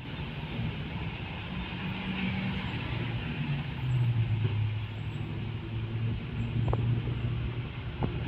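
Road traffic: a passing motor vehicle's engine running with a steady low hum over tyre and road noise, loudest from about four to seven seconds in.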